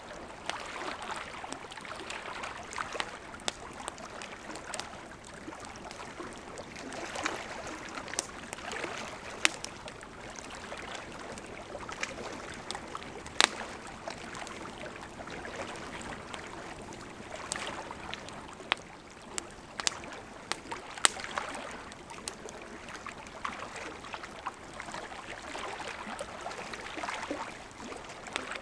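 Wood fire burning with a steady hiss and flutter of flames, broken by irregular sharp crackles and pops, the loudest about halfway through and again about two-thirds of the way in.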